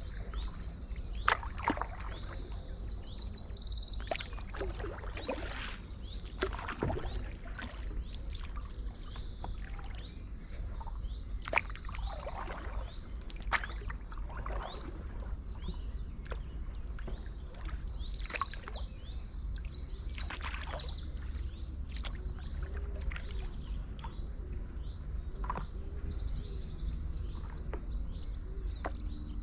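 Small songbirds singing, with repeated high chirps and several fast trilled phrases, over a steady low rumble. Short splashing knocks, typical of a paddle dipping into canal water, come through in the first half.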